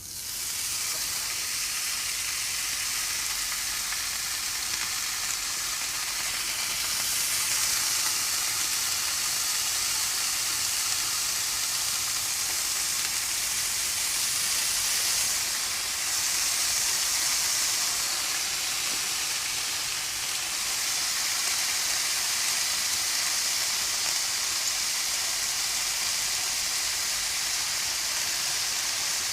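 Bacon sizzling as it fries in a hot pan, starting suddenly as the strips go in and then holding as a steady hiss.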